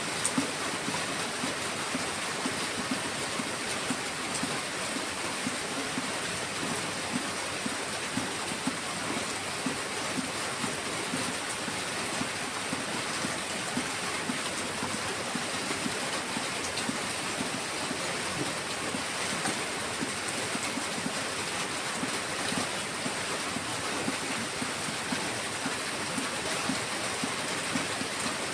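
Heavy rain falling steadily: a dense, even hiss with frequent small spatters of louder drops.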